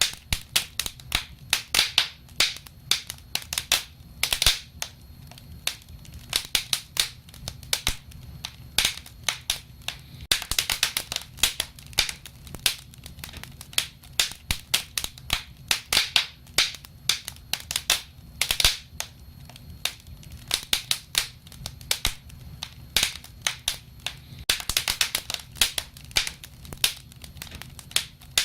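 Wood fire crackling, with frequent irregular sharp pops and snaps, some in quick clusters, over a low steady rumble.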